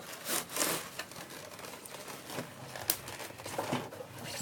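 Packaging crinkling and rustling in irregular bursts as a toy helicopter's box is opened, with a sharp click about three seconds in.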